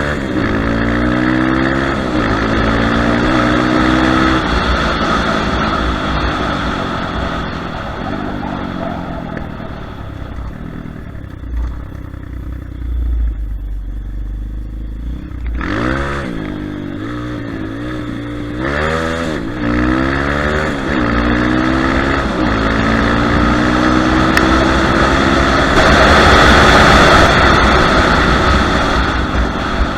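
Kayo TT140 pit bike's 140 cc four-stroke single-cylinder engine being ridden, its pitch climbing and dropping repeatedly as the throttle is opened and closed. It is quieter at low throttle through the middle and loudest near the end.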